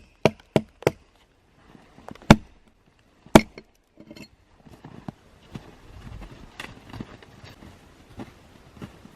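Wood being chopped: a quick run of evenly spaced sharp blows, about three a second, that stops about a second in. Two heavier single blows follow, then softer scattered knocks and crunching.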